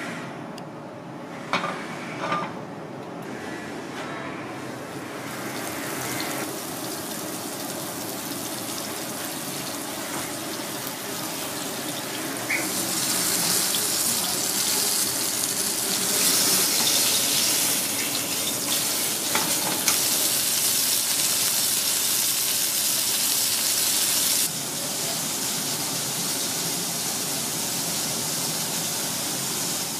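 Floured fish fillet frying in hot oil in a pan, a steady sizzle that grows louder and stops suddenly about 24 seconds in, leaving a quieter steady hiss. Two short metal knocks near the start as the pan is set on the gas burner.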